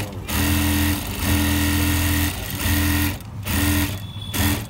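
Singer 9900 electronic sewing machine stitching in short spurts, its motor humming steadily for a second or so at a time and stopping briefly between runs.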